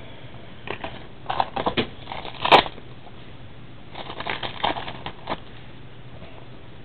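Trading card packs and cards being handled: crinkling and rustling in short irregular bursts, loudest about two and a half seconds in.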